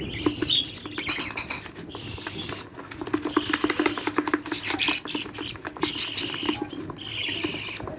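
Budgerigar chicks making high, raspy chirping calls with rapid clicking, in a run of bursts broken by brief pauses.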